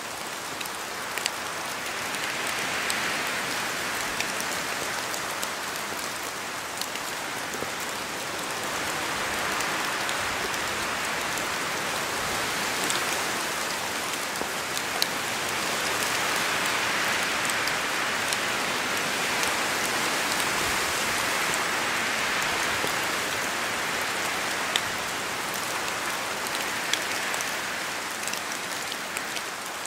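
Rain falling through forest trees: a steady hiss that slowly swells and eases, with scattered single drops ticking close by.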